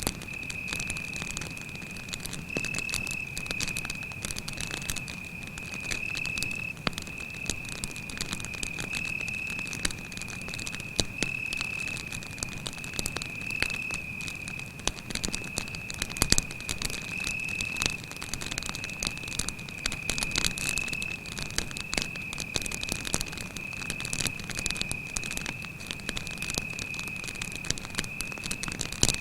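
Campfire crackling, with irregular pops and a louder snap about halfway through. Over it a cricket chirps in one unbroken high-pitched trill.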